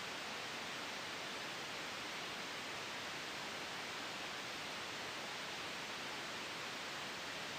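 Steady generated white noise for sleep: an even, soft hiss that never changes.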